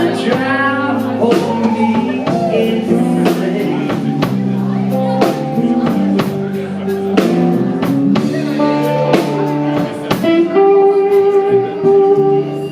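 Live blues band playing a slow blues. An electric guitar plays lead with bent, wavering notes over bass and a drum kit.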